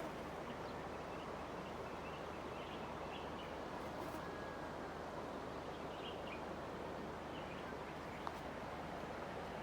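River water running steadily, with short bird chirps now and then and a single small click near the end.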